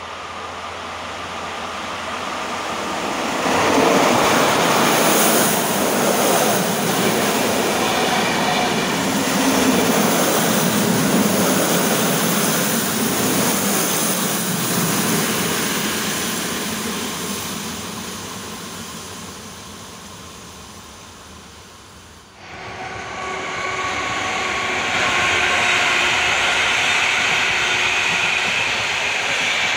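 Passenger train passing close by: the rolling of its coaches on the rails swells over the first few seconds, stays loud, then fades away. About 22 seconds in the sound cuts abruptly to another loco-hauled passenger train running past, its rail noise carrying a steady high whine.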